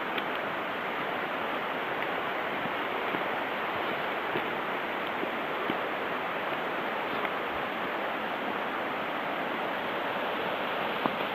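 Steady rushing of a mountain stream, with a few faint ticks scattered through it.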